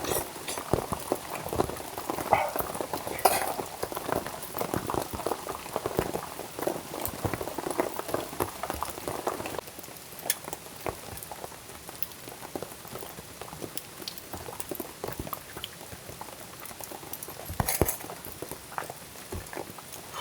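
Food simmering in a pan over a camp cooking fire: a dense bubbling, sizzling patter with occasional sharper pops. It becomes quieter and sparser about halfway through.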